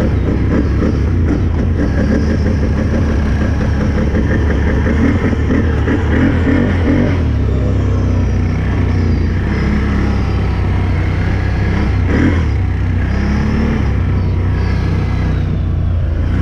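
Can-Am 1000's Rotax V-twin engine running steadily under throttle while riding along a trail.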